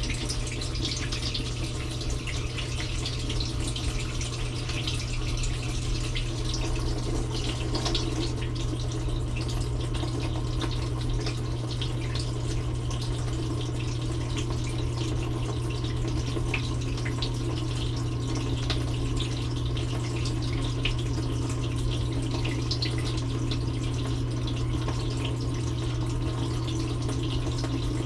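Water spraying and splashing on the dishes inside a running dishwasher, heard from within the closed tub, with scattered drips over a steady low hum from the machine.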